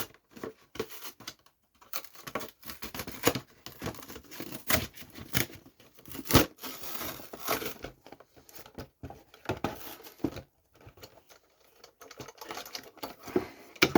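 Toy packaging being torn open and handled: irregular rips, crinkles and small clicks, with a longer tearing stretch about halfway through.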